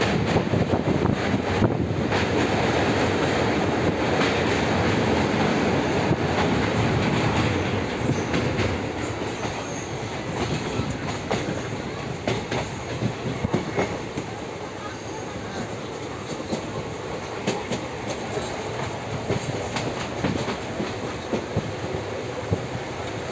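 Passenger train running on the rails: a steady rumble with scattered clicks, growing quieter about eight seconds in.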